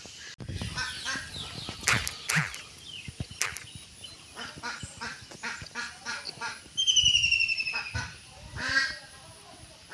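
Ducks quacking in quick runs of short, repeated calls, with a loud falling whistle-like call about seven seconds in.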